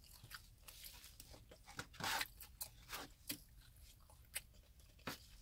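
A person chewing bacon-wrapped quail close to the microphone: quiet, irregular crunches and mouth clicks, with a louder crunch about two seconds in.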